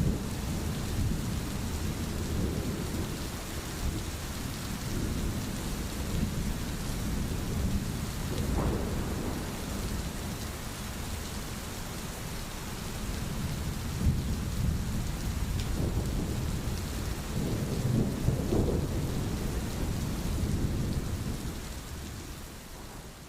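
Steady rain hiss with low rolling thunder rumbles underneath, swelling about a third of the way in and again later on, then the whole sound fading out near the end.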